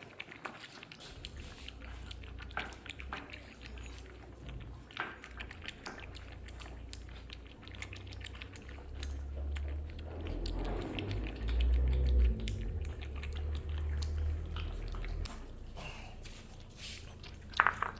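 Saint Bernard puppies lapping and slurping formula milk from bowls: a run of small wet irregular clicks. A low rumble rises underneath through the middle, loudest about twelve seconds in.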